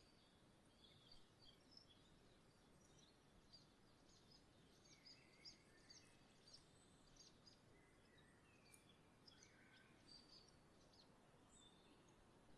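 Faint, scattered high chirps and short calls of small songbirds over a steady outdoor hiss.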